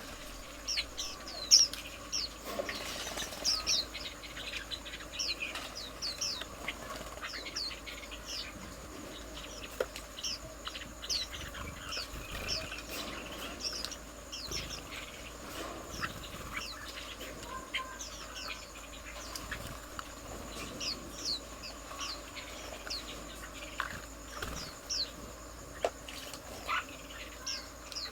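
Red-whiskered bulbuls calling, a steady stream of short, quick chirps, many of them falling in pitch, over a faint steady high tone.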